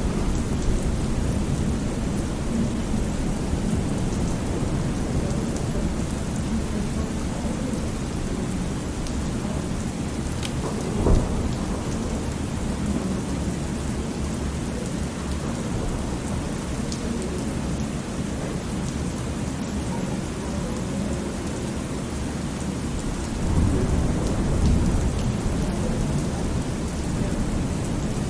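Thunderstorm sound: rain falling steadily under low rolling thunder. There is a sharp thump about eleven seconds in, and the rumble swells louder near the end.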